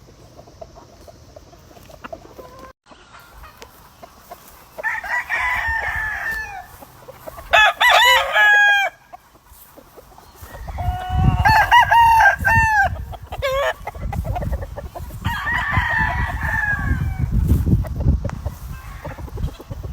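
Several roosters crowing one after another, four or five crows in all, with some overlapping. A low rumbling noise runs beneath the second half.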